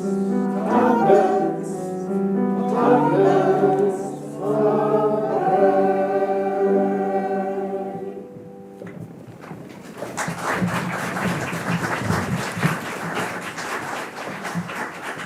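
Choir singing the closing phrases of a song, ending on a held chord, then audience applause from about ten seconds in.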